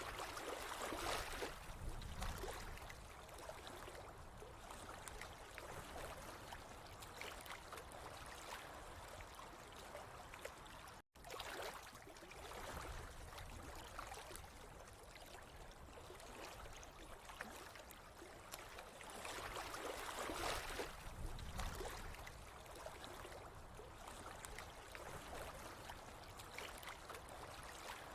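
Water flowing and trickling steadily, swelling louder about a second in and again around two-thirds through, with a sudden split-second dropout to silence a little before the midpoint.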